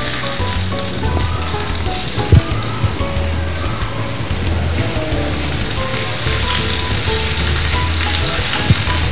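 Seasoned chicken breasts frying in hot coconut oil in a cast iron skillet, with a steady sizzle. A sharp knock comes about two seconds in and another near the end.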